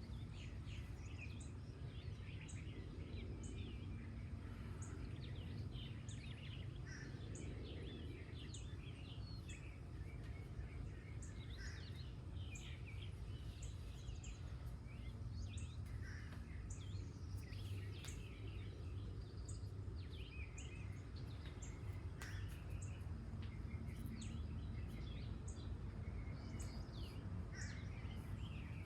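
Several wild birds singing and chirping over one another, over a steady low outdoor rumble, with a faint high tick repeating about once a second.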